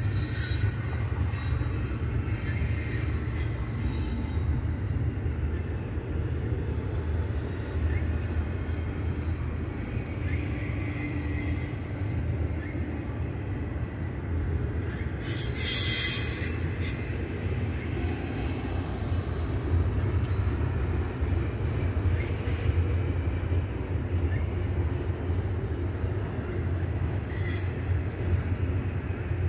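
BNSF double-stack container train's well cars rolling past, a steady low rumble of steel wheels on rail. A brief high-pitched metallic squeal rises about halfway through, with fainter squeals now and then.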